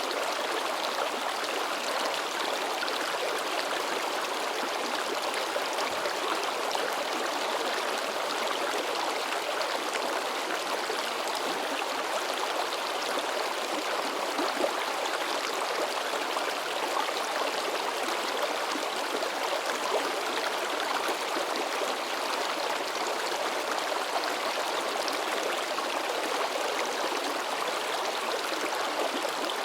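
Babbling forest stream splashing and rushing steadily, with a couple of brief louder splashes midway.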